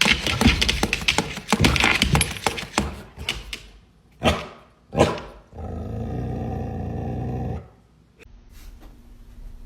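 A dog growling and vocalizing in a run of short, rough bursts, then two sharp sounds and a steadier sound of about two seconds near the middle.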